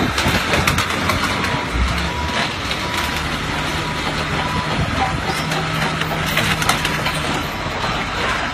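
Motorcycles being crushed by heavy machinery: crunching and sharp cracking of breaking bodywork over the steady hum of the machine's engine.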